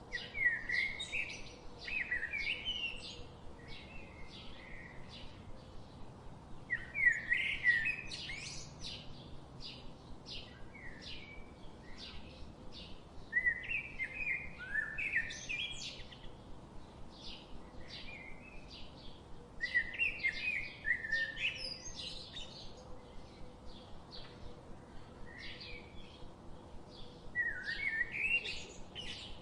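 Birds chirping and singing: a steady run of short, high, repeated chirps, with louder warbling song phrases breaking in every few seconds.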